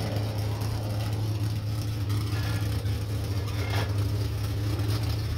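Third-generation Chevrolet Camaro drag car's engine idling steadily.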